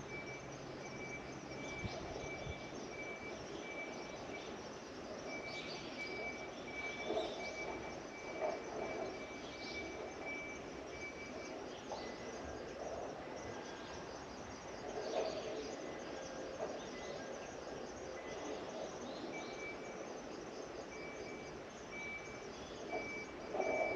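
Autumn garden ambience: a cricket chirping a thin, high, evenly pulsed note over a steady outdoor hiss, pausing for several seconds in the middle before starting again.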